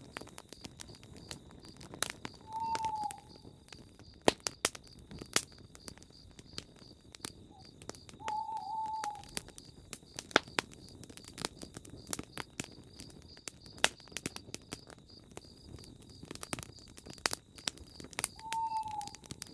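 Campfire crackling and popping, with an owl hooting three times, each a single short note. A steady high-pitched trill sits in the background.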